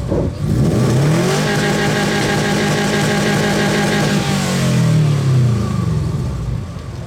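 A 2005 car's engine revved hard through its exhaust for a sound-level reading. The pitch climbs quickly, is held high for about three seconds, then falls back toward idle. The exhaust note is really deep, and at 102.9 dB it is one of the quieter cars.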